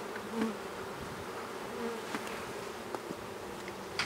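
Honey bees buzzing around an open hive: a steady hum, with single bees buzzing close by now and then. A few light clicks sound over it, the sharpest near the end.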